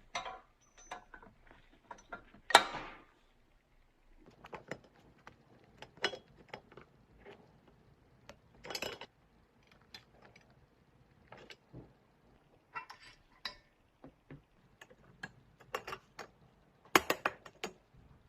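Irregular clicks, clinks and short scrapes of small metal parts and tools being handled, with a louder rasping scrape about two and a half seconds in and a quick run of sharp clicks near the end.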